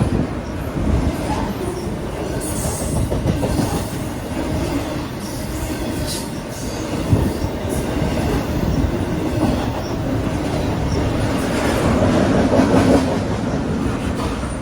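Freight train cars rolling past: a steady rumble with wheels clacking over the rail joints and some wheel squeal.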